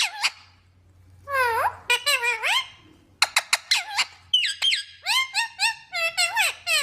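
Pet green parrot chattering: a run of squeaky calls that slide up and down in pitch, mixed with quick clicks, in several bursts.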